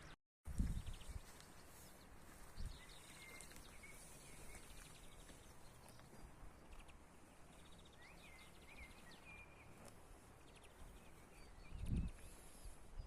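Small birds chirping and giving quick trills over a faint outdoor hiss, with two loud low rumbles on the microphone, about half a second in and near the end.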